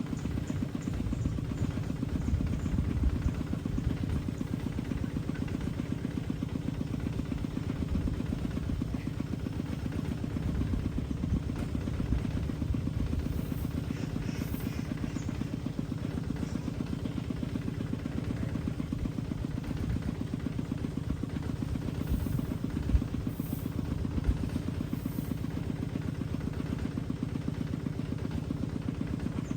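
Engine running steadily at a constant speed: a low, evenly pulsing drone.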